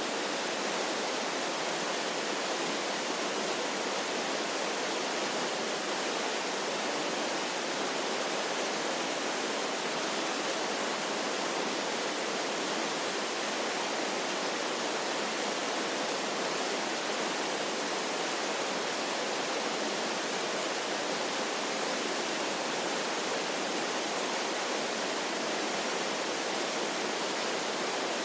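Waterfall sound effect: a steady, unchanging rush of falling water, an even hiss with little deep rumble.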